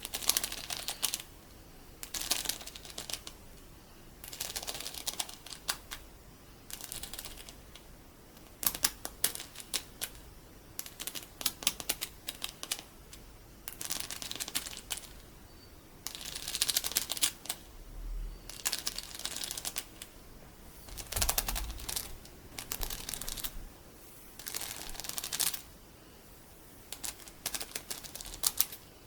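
Loose colourful sticky beads handled and stirred, giving crisp clicking and crackling in short bursts about a second long, one every second or two, with brief pauses between.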